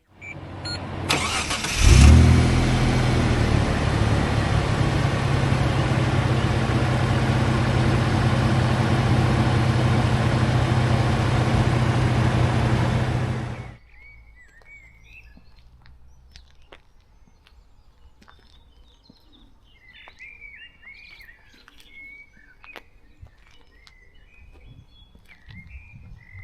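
Mitsubishi GTO Twin Turbo's 3.0-litre twin-turbo V6 being started: the starter turns it for about a second, it catches loudly about two seconds in, then idles steadily. About halfway through, the engine sound cuts off abruptly, leaving faint birdsong.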